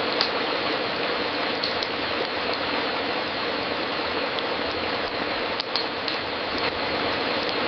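Fireplace crackling: a steady hiss with scattered sharp pops, a pair close together about a second and a half in and again near six seconds.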